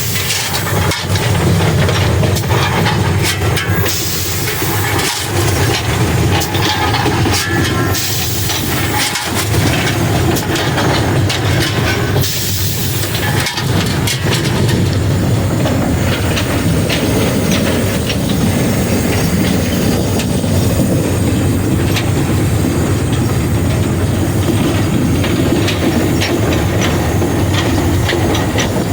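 Frisco 1630, a 2-8-0 steam locomotive, running under way, heard from inside the cab: a steady rumble and clatter of the engine and wheels on the rails. Loud steam hissing rises about four seconds in, again around eight seconds, and once more around twelve to fourteen seconds.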